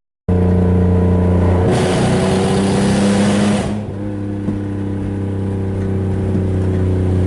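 BMW E36 325is 2.5-litre straight-six engine, heard from inside the cabin while driving, running with a steady drone. About two seconds in, a rushing noise joins it for about two seconds while the engine note shifts; then the engine eases off and runs more quietly.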